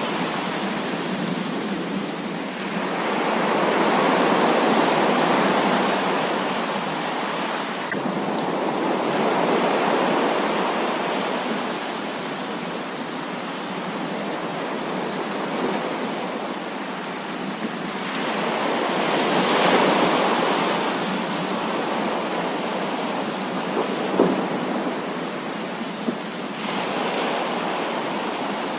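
Heavy rain falling steadily, with thunder rolling in several times, each roll swelling and fading over a few seconds. There are a couple of sharp ticks near the end.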